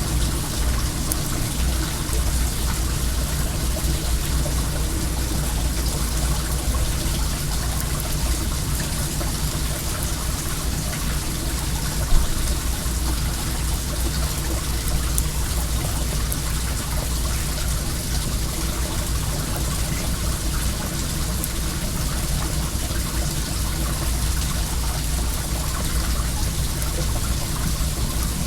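Well water running steadily in a continuous trickling splash, with faint crackles from a wood fire and one sharp pop about twelve seconds in.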